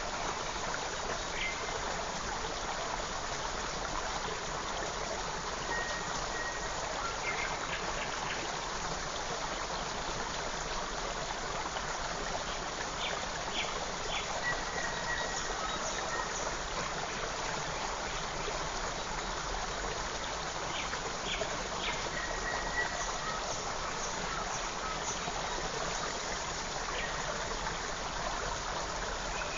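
Small forest creek flowing steadily, an even rushing trickle of water, with a few faint, brief bird chirps over it now and then.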